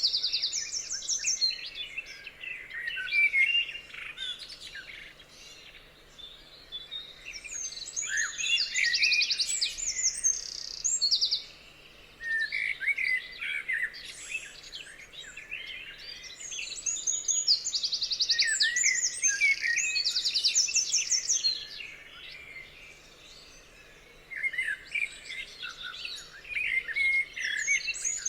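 Several songbirds singing in overlapping bouts: quick high chirps and fast trills, with short lulls between bursts.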